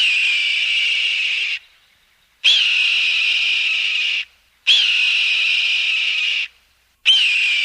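An animal's long, harsh, hissing call, given four times. Each call lasts about a second and a half and starts with a brief upward lift in pitch, with short silent gaps between; the last is cut off.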